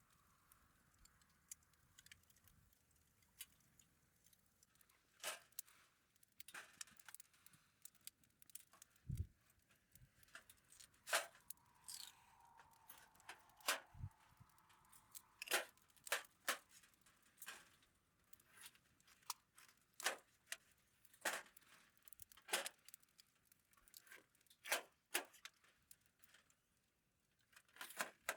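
Wood campfire crackling: irregular sharp pops and snaps, about one or two a second, with two dull low thumps midway.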